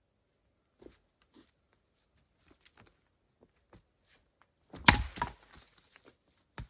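A log being split by hand: light knocks, then one heavy blow about five seconds in with the wood cracking and splintering apart, and a sharp knock near the end.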